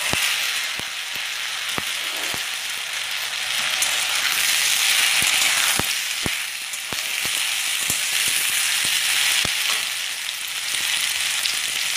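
Half-fried vegetables sizzling in hot mustard oil in a metal wok while a metal spatula stirs them. A steady frying hiss runs under about a dozen sharp clicks of the spatula knocking against the pan.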